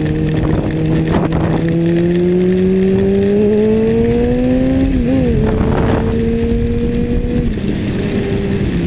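Kawasaki ZZR600's inline-four engine running under way, its pitch climbing slowly for about five seconds as the bike gathers speed. It dips briefly, holds steady, then falls near the end as it eases off, over a steady rush of wind noise.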